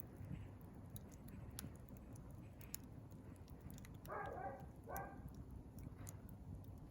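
Wood fire crackling faintly, with scattered sharp pops. About four seconds in, two short animal calls in quick succession stand out above the fire.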